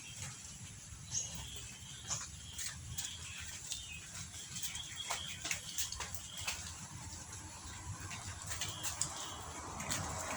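Faint short chirps, like small birds, with scattered light clicks over a low steady hum.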